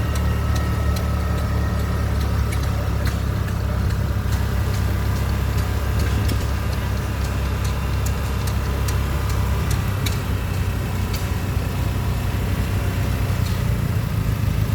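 An engine running steadily close by, a low drone with scattered faint clicks and ticks over it; its lowest note changes slightly about ten seconds in.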